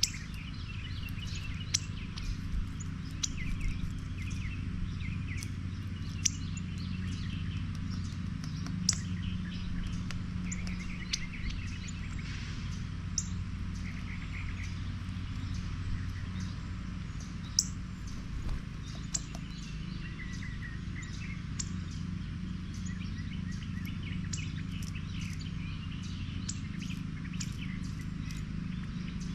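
Small birds chirping and calling intermittently, with scattered sharp single clicks, over a steady low hum.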